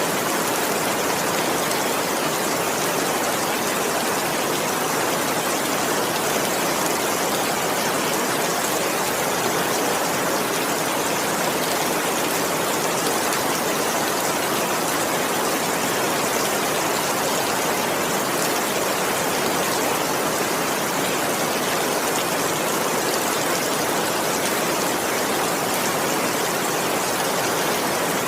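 Heavy rain falling steadily, a dense, even hiss with no single drops or thunder standing out.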